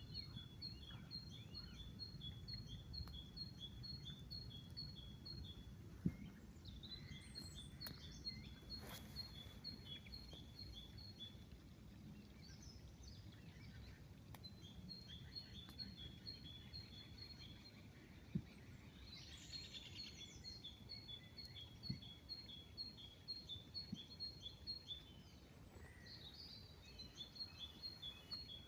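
A small songbird singing long runs of evenly repeated notes, alternating between a higher and a slightly lower pitch at about two to three notes a second, in bouts of several seconds with short pauses. A faint low rumble lies underneath, with a couple of sharp clicks.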